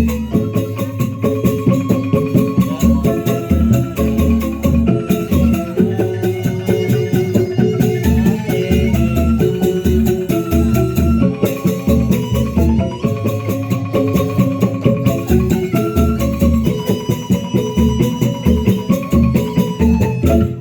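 Traditional percussion ensemble music: many quick strokes on pitched struck instruments over a dense, steady beat of drums and rattles.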